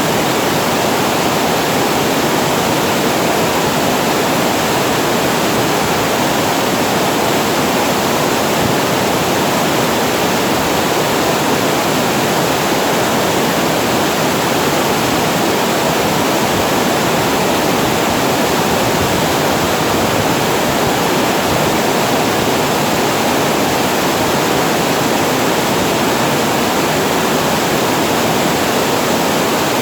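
Water pouring over the weir of a storage reservoir and falling into the pool below: an even, unbroken rushing noise with no change in strength.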